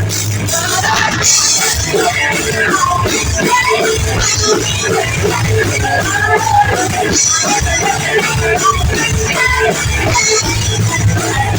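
Live rock band playing a song, with electric guitar, bass and drums.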